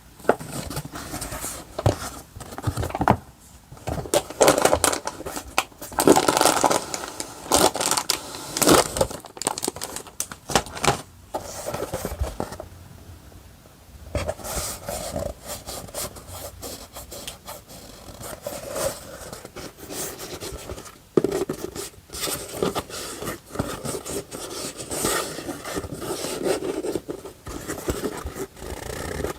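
Paper stationery and sticker packaging being handled close up: irregular rustling, scraping and crinkling, with a short lull about halfway through.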